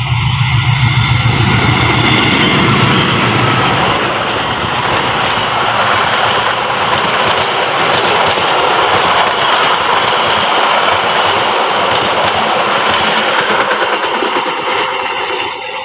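Passenger train passing through at speed close by: the diesel locomotive's engine drone for the first few seconds, then a steady rush of wheels on rail as the long rake of carriages goes by, falling off just before the end.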